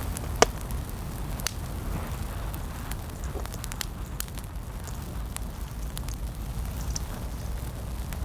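A wood fire crackling with scattered sharp pops, the loudest about half a second in, over a steady low rumble of wind on the microphone.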